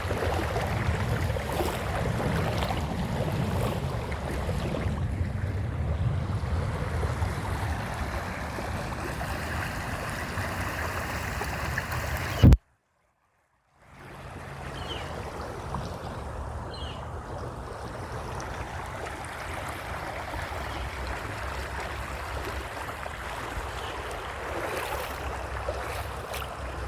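Steady rushing of creek water with wind noise on the microphone. About halfway through, a sharp click is followed by a second or so of dead silence before the water sound returns.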